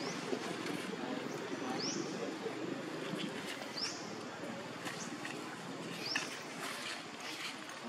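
A bird giving a short, high, rising chirp about every two seconds, over steady low background noise with a few faint clicks.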